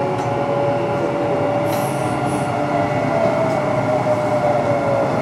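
Kintetsu 9820 series train running, its Mitsubishi IGBT-VVVF inverter and traction motors giving a steady whine that slowly falls in pitch over rumbling wheel and track noise. Two brief high squeals come about two seconds in.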